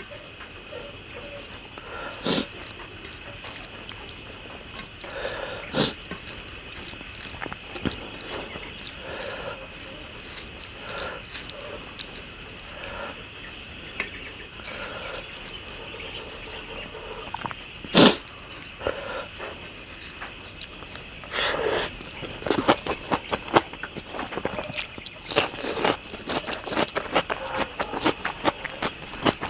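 Close-up eating sounds: chewing and mouth noises with a few sharp clicks, turning into quick, dense crunching and chewing from about two-thirds of the way in. Crickets chir steadily and high-pitched behind it.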